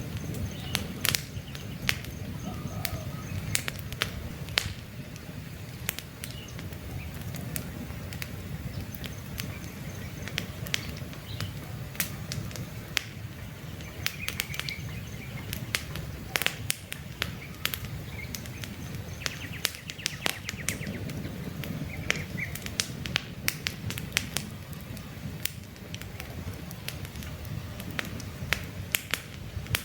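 Wood campfire crackling, with frequent irregular sharp pops over a steady low rumble of the flames. Faint bird chirps now and then in the background.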